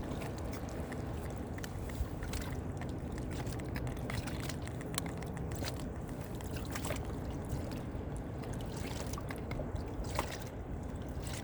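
Water lapping and trickling against a kayak hull, with a few light clicks and taps from handling.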